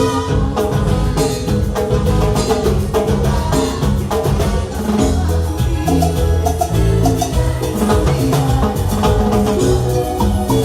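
Live cumbia band playing an instrumental passage with a steady beat, bass and percussion.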